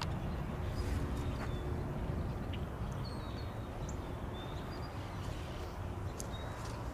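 Low, steady rumble of a freight train rolling past, with a few short, high bird chirps over it.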